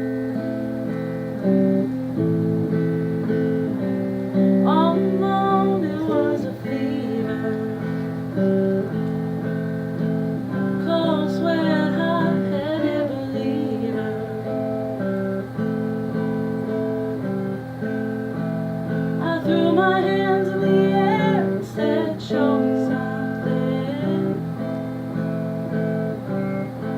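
Acoustic guitar playing the instrumental introduction to a song, with a few wordless vocal phrases over it.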